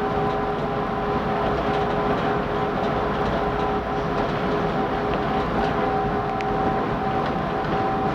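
Chicago 'L' Brown Line train running between stations, heard from on board: a steady rumble of wheels on the rails with a few held motor tones.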